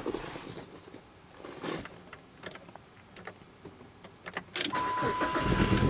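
Clicks and knocks of someone handling a car's door and keys, then a steady electronic tone comes on and the 2001 PT Cruiser's four-cylinder engine starts near the end.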